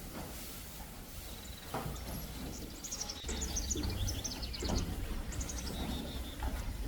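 Small birds chirping in quick runs of short, high notes over a steady low rumble.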